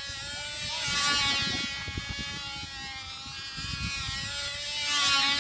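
Cox .049 Black Widow two-stroke glow engine on a control-line model plane in flight, running at full speed with a high buzz. The buzz swells and drops in pitch twice, about four seconds apart, as the plane passes on each lap of the circle.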